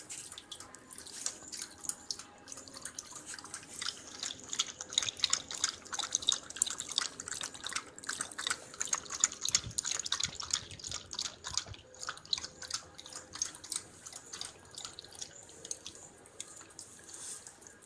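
Indian pariah dog lapping water with its tongue: a steady run of quick, wet laps, about three or four a second, that fades out near the end.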